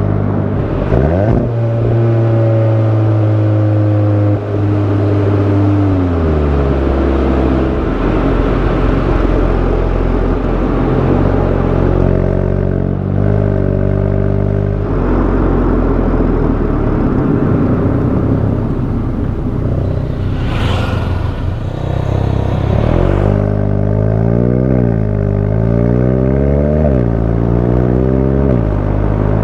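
Volkswagen Golf 8 GTI's 2.0-litre turbocharged four-cylinder engine and exhaust while driving, the engine note climbing and dropping with throttle and gear changes. Near the end the revs swing quickly up and down several times.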